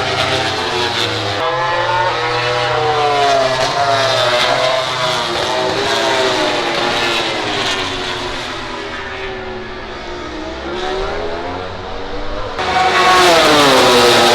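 MotoGP prototype race bikes' 1000 cc four-cylinder engines at racing revs, the pitch rising and falling as they shift and pass. A louder bike comes through near the end, its pitch sweeping steeply down.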